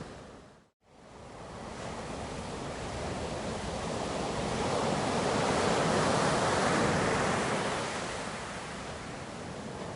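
Ocean surf washing on a shore. The sound fades to a moment of silence just under a second in, then builds back into a swell of breaking waves that is loudest about six to seven seconds in and eases off again.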